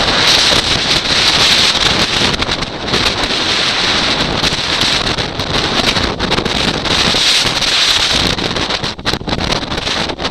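Strong wind gusting to about 65 mph blowing across the microphone: loud rushing noise that rises and falls with the gusts, easing briefly about nine seconds in.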